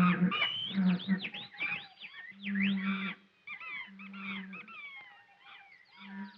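A chaotic chorus of wild animal cries, many overlapping screeches and wailing calls sweeping up and down in pitch, loudest at the start and thinning out toward the end, over an intermittent low hum from the old film soundtrack.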